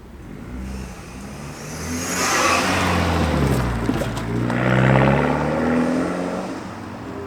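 BMW F30's N20 turbocharged four-cylinder engine accelerating hard in sport mode through an aftermarket MST intake and inlet. The engine note rises twice, with a brief drop about four seconds in, and a loud rush of intake air swells with each climb.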